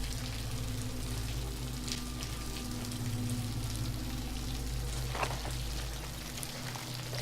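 Steady rush of falling water from a waterfall, with a couple of short louder noises about five seconds in and near the end.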